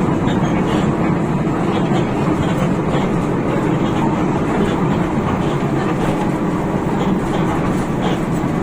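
Steady low drone of a Hino RK8 bus under way, its rear-mounted diesel engine and road noise running together, with faint light rattles now and then.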